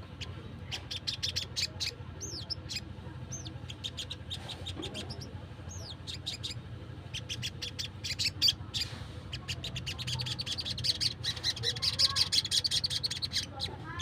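Sunbird calling: a string of sharp, high chips with a few short down-slurred whistles. About ten seconds in it builds into a fast, dense trill.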